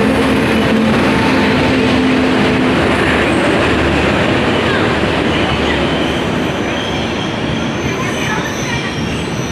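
Electric locomotive and its passenger coaches rolling past close by along a station platform: a loud, dense rumble, with a steady hum from the locomotive in the first few seconds. High, thin wheel squeals come in over the rumble in the last few seconds.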